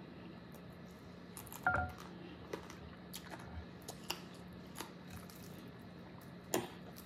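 Close-miked chewing of crispy fried chicken wings: soft mouth sounds with a handful of short, sharp clicks and crunches, about one every second, over a faint steady hum.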